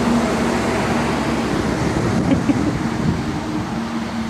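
Steady outdoor background noise: a continuous rumble and hiss with a constant low hum.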